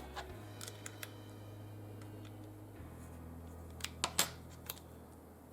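A few light clicks and taps from small tools or parts being handled on a workbench, over a low steady hum. The clicks are scattered, with a cluster of sharper ones about four seconds in.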